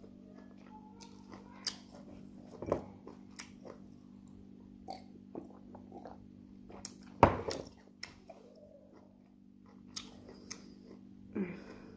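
Close-miked mouth sounds of a person eating jollof rice: chewing and lip smacks, with a drink from a glass around the middle. A sharp knock about seven seconds in is the loudest sound, and a steady low hum runs underneath.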